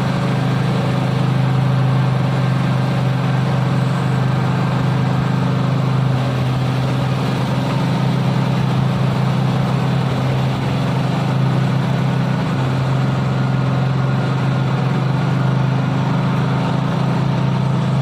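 Isuzu long-chassis truck's diesel engine running hard at steady revs, pulling uphill under load.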